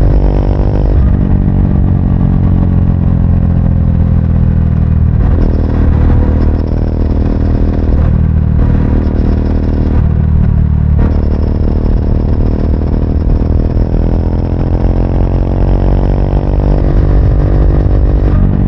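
Triumph Speed 400's single-cylinder engine on the move: the revs fall over the first few seconds, break briefly a few times, then climb steadily through the second half as the bike accelerates.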